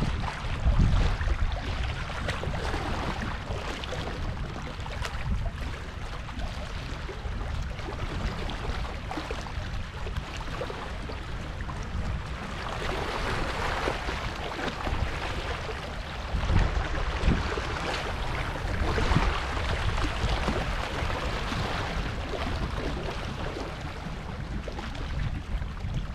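Sea waves washing against a rocky shore, with wind buffeting the microphone in low rumbles. The noise swells and eases twice in the second half.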